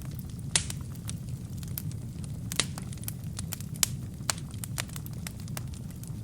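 Wood fire crackling in a fireplace: a steady low rumble of flames with frequent sharp pops and snaps from the burning logs, three of them louder than the rest, about half a second in, at two and a half seconds and near four seconds.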